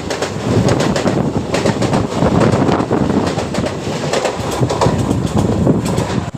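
Mumbai local suburban electric train running, its wheels clattering with a rapid series of clicks over the rails.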